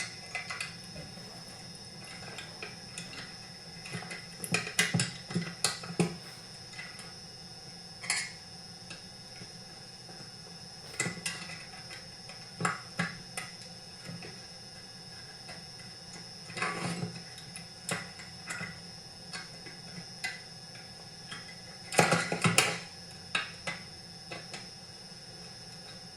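Hand tools and metal chainsaw parts clinking and knocking on and off as a saw mount is fitted during reassembly, in scattered clusters of short sharp clicks, the loudest a little over twenty seconds in, over a steady faint hiss.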